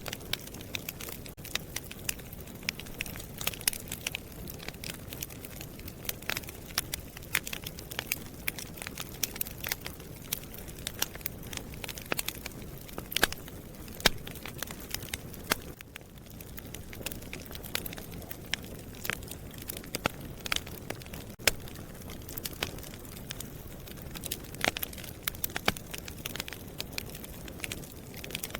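Wood fire burning in a fireplace: a steady low rumble of flame with dense, irregular crackling and occasional louder pops.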